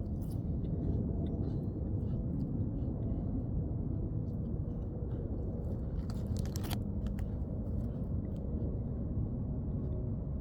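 Crackers being chewed, scattered crisp crunches heard close up, loudest about six seconds in, over a steady low outdoor rumble.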